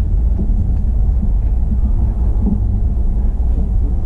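Kintetsu 80000 series Hinotori express train running underground, a steady low rumble heard from inside the front of the passenger cabin.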